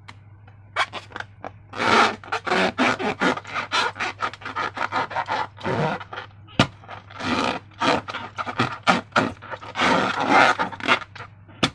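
Balloons and slime being handled and worked: a quick, irregular run of short scraping and rubbing strokes, starting about a second in, over a steady low hum.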